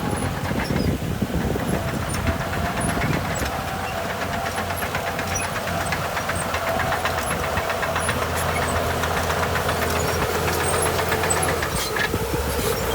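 Heavy diesel engine of earthmoving equipment running steadily, a low rumble with a faint tone that wavers in pitch.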